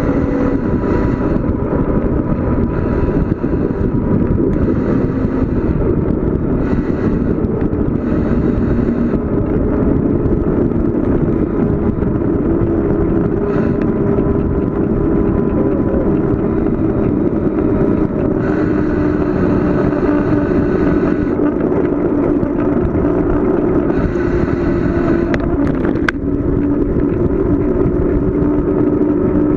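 Bicycle coasting fast downhill on a paved road: a steady rush of wind and tyre noise with a faint hum that slowly drifts in pitch, and a single sharp click near the end.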